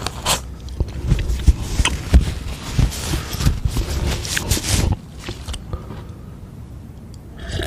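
Close-miked crackling and scraping with many sharp clicks for about five seconds, then quieter: eating or food-handling noises.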